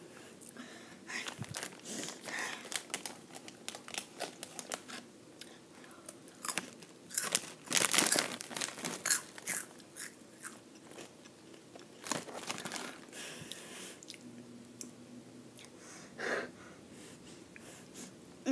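Close-up crunching and chewing of Flamin' Hot Cheetos, a dense run of crisp cracks that is loudest about halfway through and fades near the end, with the foil snack bag crinkling as it is handled.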